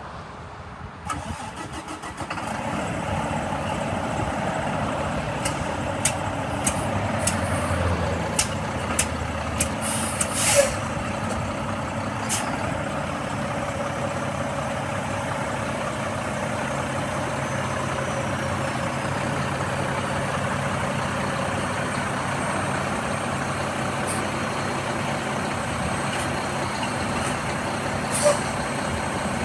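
Volvo D11 inline-six diesel engine in a heavy truck cranking and catching about two seconds in, then idling steadily. A run of sharp clicks and a short hiss come about a third of the way through, and another brief hiss comes near the end.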